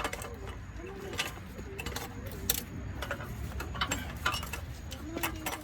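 Scattered metallic clinks and clicks at irregular intervals: hand tools and truck parts knocking together during clutch and transmission work, over a low steady hum.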